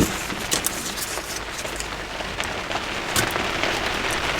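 Heavy rain falling on a garden studio, heard from inside: a steady dense hiss scattered with many individual drop taps. A single sharper knock comes right at the start.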